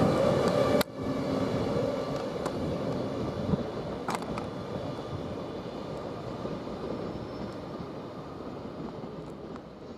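Passenger train running on the tracks: a loud run with a steady whine cuts off sharply just under a second in, then a lower rumble fades gradually as the train recedes.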